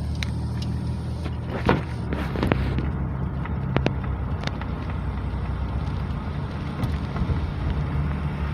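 A car driving, heard from inside: a steady low engine and road hum, with scattered sharp clicks and ticks over it.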